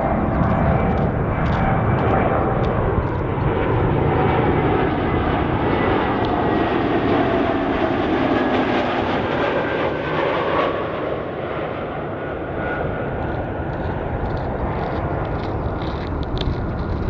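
Jet airliner passing close by on landing, a loud steady rush of engine noise with a faint whine that slowly falls in pitch; the sound eases somewhat after about ten seconds.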